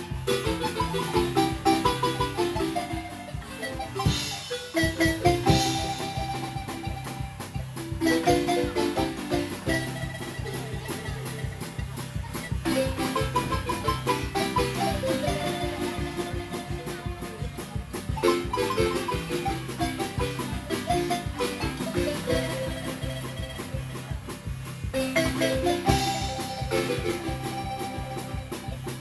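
Acoustic marimba played with mallets in a lively dance tune: fast runs of quickly repeated notes over a steady bass line, with no electronic instruments.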